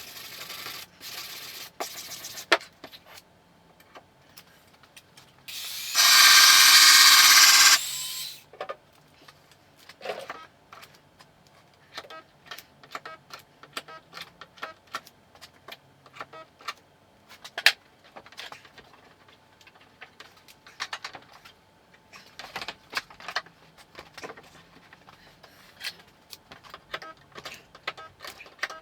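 Irregular light taps and knocks on car body sheet metal during dent repair. About six seconds in, a power tool runs for about two seconds, the loudest sound.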